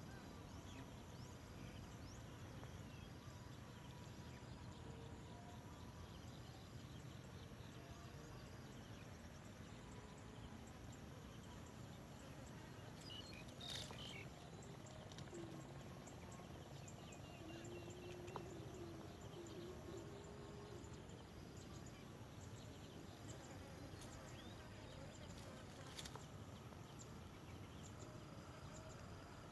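Faint outdoor ambience with steady high insect trilling and a couple of sharp clicks, once in the middle and once near the end.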